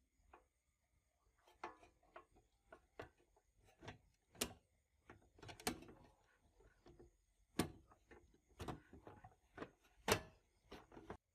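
Irregular clicks and knocks of hard parts being handled during work on an old amplifier, with about five louder knocks among many small ones.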